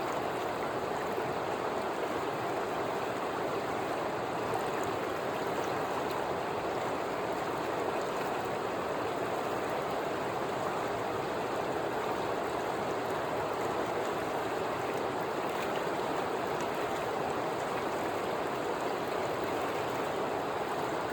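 Mountain river flowing over rocks: a steady rush of water with small splashes and gurgles.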